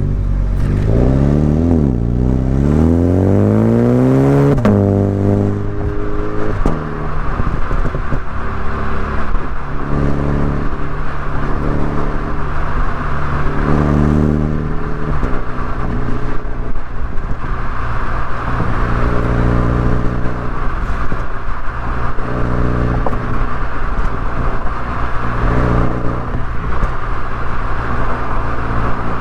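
BMW Mini Cooper S engine and exhaust under acceleration: revs climb, dip briefly, climb again, then drop sharply about four and a half seconds in at a gear change. After that the engine note rises and falls with throttle, over steady road noise.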